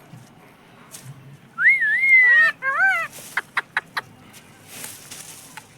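Pet parrot whistling: a wavering whistle that settles into a held, slowly falling note, then two short squawky calls and four sharp clicks.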